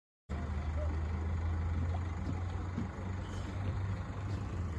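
An engine running steadily with a low, even hum, cutting in suddenly after a moment of total silence.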